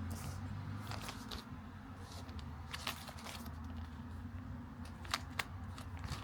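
Paper and cardboard packaging being handled during an unboxing, with scattered crinkles and sharp clicks, a few close together about three seconds in and again after five seconds, over a low, steady hum.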